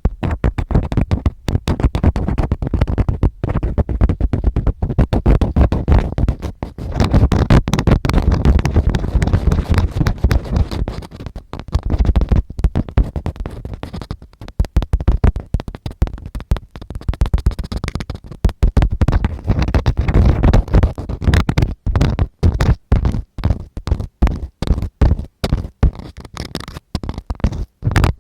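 Ear-cleaning ASMR sounds: tools scratching and rubbing right against the microphone, crackly, with deep rumbling from the contact. The strokes run together for about the first half and then become shorter and separate.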